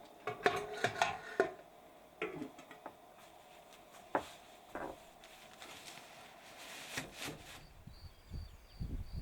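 A few scattered knocks and clatters of kitchen work, such as wood and dishes being handled. Near the end, crickets start chirping in short, evenly repeated pulses, with wind gusting on the microphone.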